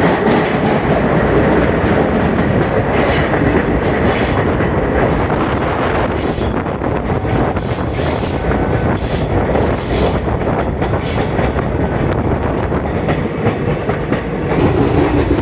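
Train running on the rails: a steady noise of wheels on track, with irregular short clatters.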